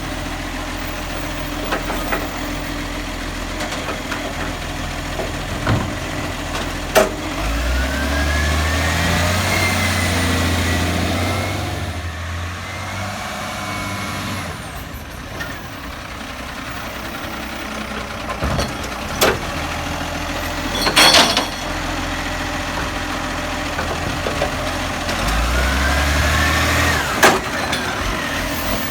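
Garbage truck engine idling, twice revving up for a while with a rising whine over it, as when the engine drives the hydraulic bin-lifting arm. There are a few sharp knocks and a short hiss of air about two-thirds of the way through.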